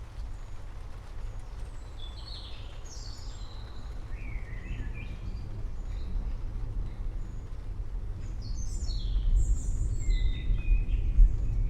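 Songbirds chirping and trilling in short, scattered phrases over the low rumble of distant thunder, which swells louder in the last few seconds.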